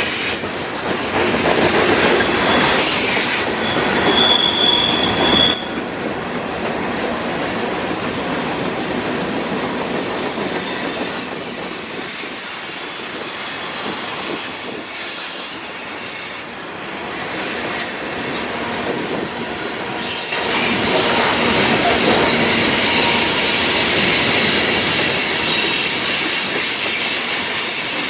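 Cars of a long mixed freight train rolling past, steel wheels rumbling and clattering on the rails, with a brief high-pitched wheel squeal a few seconds in. The noise eases somewhat in the middle and grows louder again near the end.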